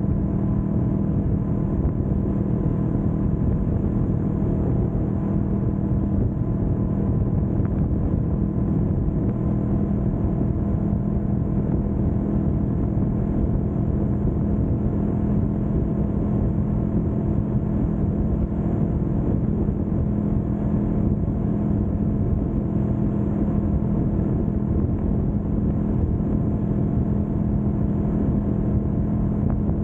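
2025 Kawasaki Vulcan S 650's parallel-twin engine running at a steady cruising speed, holding one even note with no revving.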